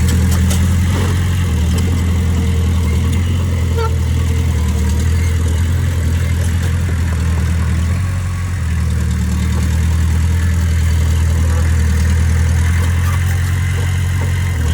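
Diesel engine of heavy earthmoving equipment running at a steady speed, a low even drone that eases briefly a little past halfway.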